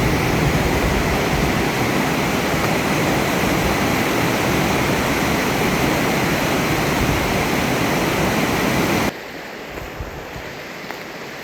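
Loud, steady rush of river water over falls or rapids, cutting off abruptly about nine seconds in. After it comes a much quieter outdoor hiss with a few faint ticks.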